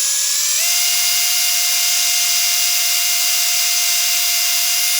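Electric drill running at full speed, rising in pitch over the first half second and then holding a steady high whine with hiss, as a new bit drills out a broken bolt in an outboard engine block.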